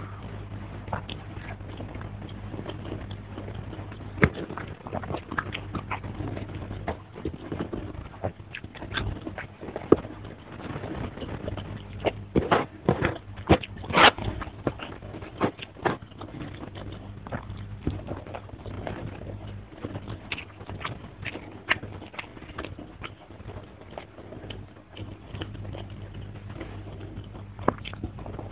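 Close-miked eating by hand: chewing and biting with many short wet mouth clicks and smacks. There is a louder run of them about twelve to fourteen seconds in, over a low steady hum.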